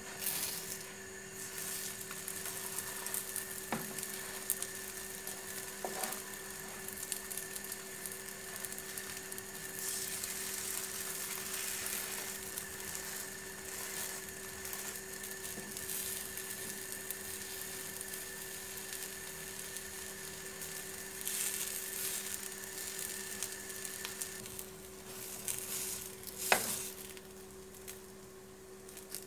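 Crepe parcels sizzling as they fry in a non-stick pan, over a steady faint hum. A few light knocks of a wooden spatula against the pan come through, and the loudest is a sharp tap near the end.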